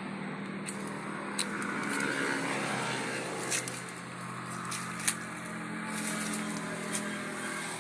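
A motor engine running steadily, with a few sharp clicks over it.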